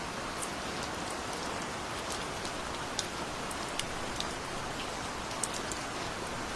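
Steady gentle rain: an even hiss of rainfall with individual drops ticking sharply and irregularly on a surface.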